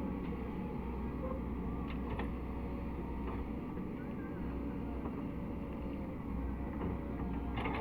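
Caterpillar 307E2 mini excavator's diesel engine running steadily, with a few faint knocks, including a small cluster of them near the end.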